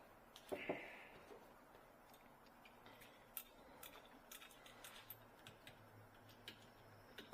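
Near silence with faint, scattered clicks and ticks, two slightly louder ones about half a second in: small plumbing fittings and tools being handled.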